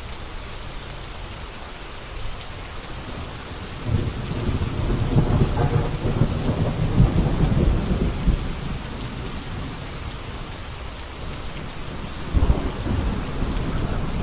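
Steady rain, with thunder: a low rumble builds about four seconds in and dies away over several seconds, and a second, sharper clap of thunder comes near the end.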